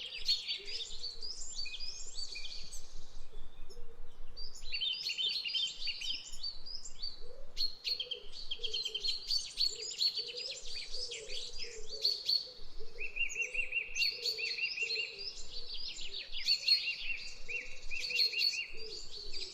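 Small bird chirping in rapid, almost continuous runs of short high notes, with a brief pause about three seconds in.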